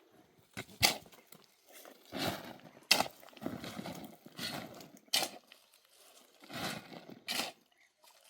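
Several sharp knocks at irregular intervals, mixed with rougher scraping or rustling noises in between.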